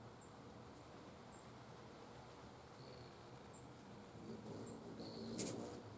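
Black-chinned hummingbird's wings humming as it flies near the feeder. The hum comes in about four seconds in and is loudest near the end, where there is one sharp chip. A few soft, high chip notes and a steady high insect-like whine run underneath.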